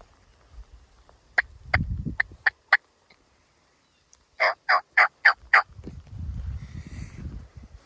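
Turkey yelps: two runs of about five short, evenly spaced notes, about three a second, the second run louder. Low rustling movement noise lies between the runs and after them.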